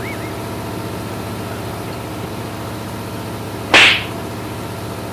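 Steady drone of a tugboat's diesel engine running, with one loud, short swoosh about three and a half seconds in.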